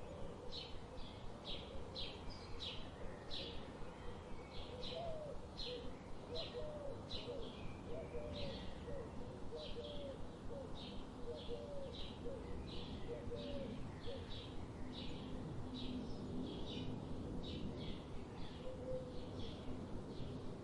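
A small bird chirping: one short, high chirp repeated about twice a second, steady throughout. Between about four and nine seconds in, a few lower, hooked calls from another bird join in, over a faint steady background hiss.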